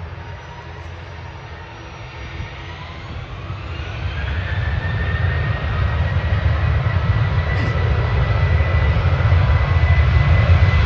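Jet airliner's engines growing steadily louder as the aircraft nears, over a deep rumble. A whine rises in pitch a few seconds in, then holds steady.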